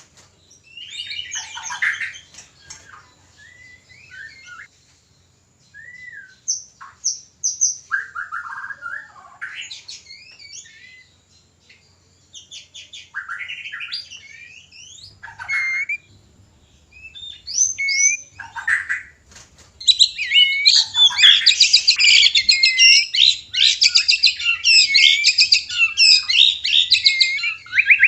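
White-rumped shamas giving mating calls: short, scattered whistled phrases and chatters, then, about twenty seconds in, a loud, dense run of rapid, varied song and calls. This is the courtship singing of a shama pair, the male wooing the female.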